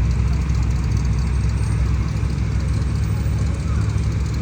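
A parade vehicle's engine running steadily at low speed, a deep even rumble.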